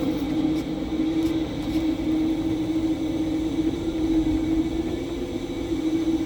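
Tower crane machinery running with a steady hum, its pitch edging slightly higher about halfway through, over a low, fluctuating wind rumble.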